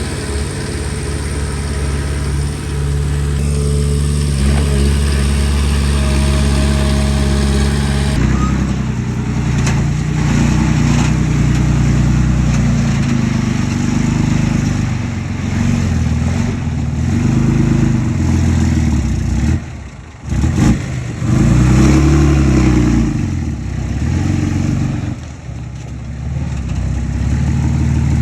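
Komatsu D20P bulldozer's diesel engine working under load, its pitch rising and falling as it pushes. The sound changes abruptly about eight seconds in, and the engine dips briefly about twenty seconds in.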